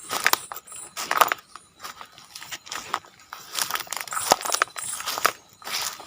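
Footsteps crunching and rustling through dry leaves and undergrowth, an irregular series of crackling steps.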